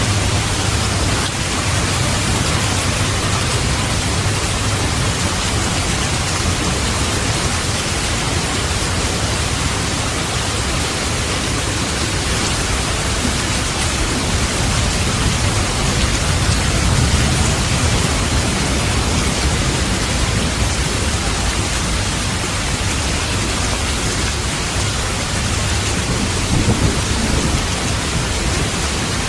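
Steady rain hissing without a break, under low rumbles of thunder that swell and fade, loudest just over halfway through and again near the end.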